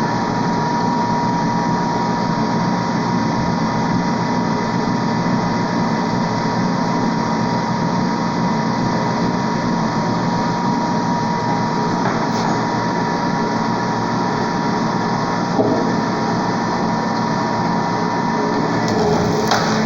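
Hydraulic log splitter's motor and pump running steadily, with a few faint knocks.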